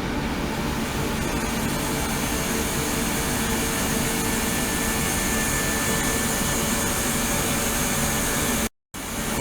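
Steady machine-like hum and hiss with a few faint steady tones, cut off for a moment near the end.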